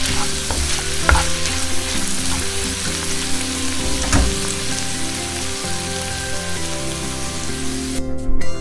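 Minced chicken, onion and red pepper sizzling in a frying pan as they are stirred, with a couple of sharp knocks of the utensil against the pan. Near the end the sizzle cuts off and music comes in.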